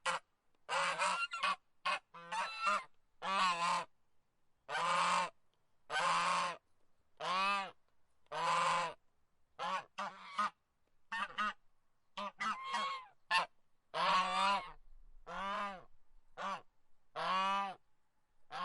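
Goose honking over and over: harsh, nasal calls about one a second, some coming in quick pairs.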